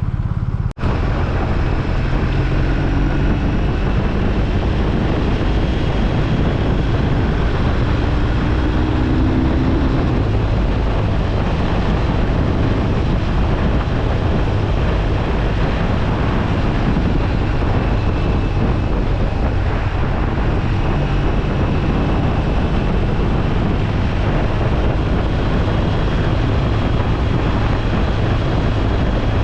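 Wind rushing over the microphone while riding a BMW R1250RT motorcycle, with its boxer-twin engine running steadily underneath.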